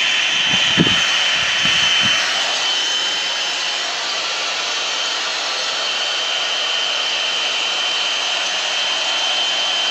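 One-step hot-air dryer brush running steadily: an even rush of air with a thin, high motor whine. A few low thumps come in the first two seconds.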